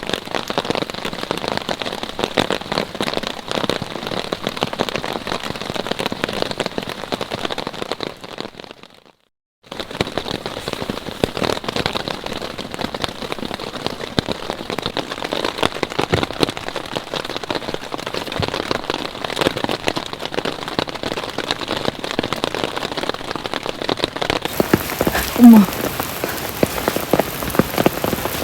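Steady rain, dense pattering of many drops, broken by a short cut to silence about a third of the way in. Near the end there is one brief, loud pitched sound.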